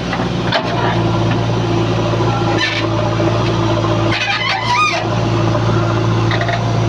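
Heavy diesel engine running steadily, with a rooster crowing over it: a short call about two and a half seconds in and a longer crow about four seconds in.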